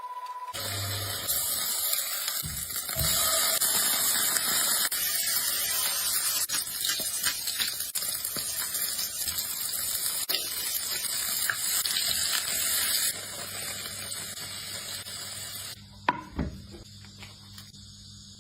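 Water running or spraying in a steady hiss that stops about 13 seconds in, followed by a single knock a few seconds later.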